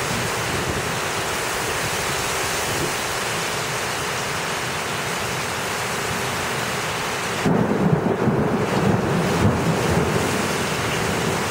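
Heavy thunderstorm rain pouring in a steady hiss. About seven and a half seconds in, the hiss thins and a low, uneven rumble takes over.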